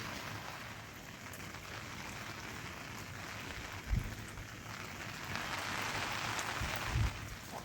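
Steady rain falling, an even hiss of drops. There are two short low thumps, about four seconds in and again near seven seconds.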